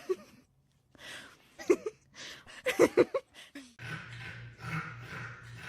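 A dog's short vocal sounds: one at under two seconds, then three quick ones near the three-second mark. From about four seconds a steady low hum with a hiss takes over.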